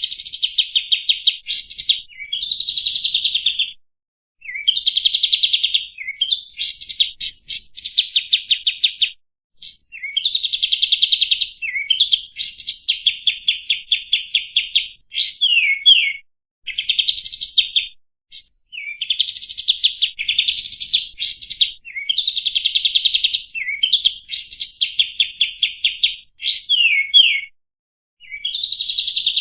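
A kapas tembak songbird singing a long run of rapid, buzzy trills and chattering phrases, each one to two seconds long with short pauses between them, some ending in quick downward-sliding notes.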